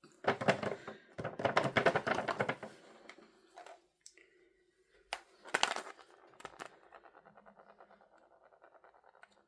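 Packaging being unwrapped by hand, with rapid, loud crinkling and crackling, then a few sharp taps and a faint, fast, even ticking.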